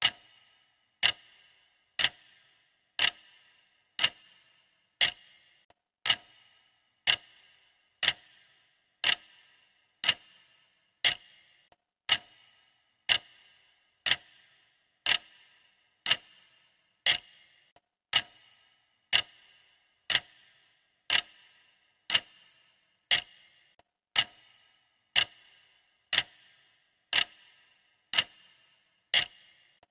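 Clock ticking, steady and even at about two ticks a second, counting down a timer.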